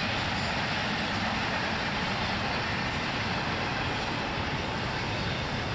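A train rolling past with a steady, unbroken rush of rumbling noise from wheels on rail and no horn.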